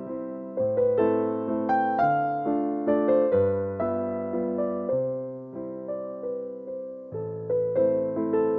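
Solo piano playing a gentle waltz, bass notes changing about every bar with melody notes above.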